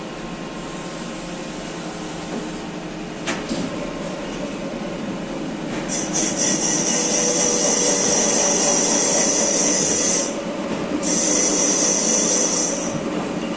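A high-pitched power tool runs twice, first for about four seconds and then, after a short pause, for about two seconds, over a steady machine hum. A single sharp click comes about three seconds in.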